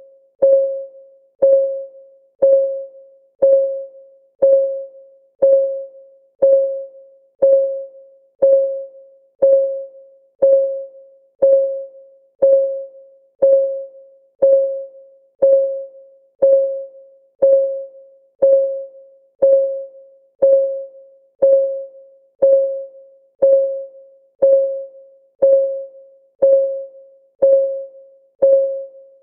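Countdown timer's clock-ticking sound effect, one tick a second, evenly spaced. Each tick is a short ringing note on the same pitch that dies away quickly.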